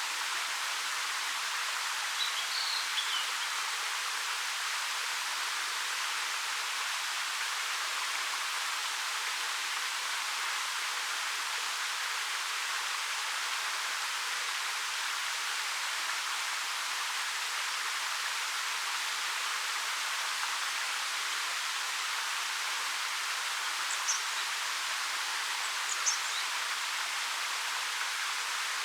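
Steady rush of a 13 m waterfall falling over rock. A few short, high bird chirps come through it about two seconds in and twice near the end.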